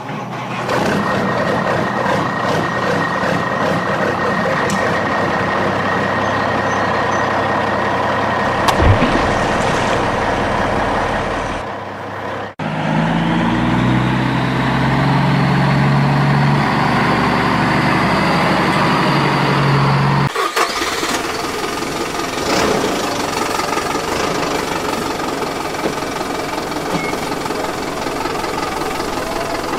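Vehicle engines running, heard in a few separate clips that change abruptly about twelve seconds in and again about twenty seconds in; the middle clip has a steady low engine note.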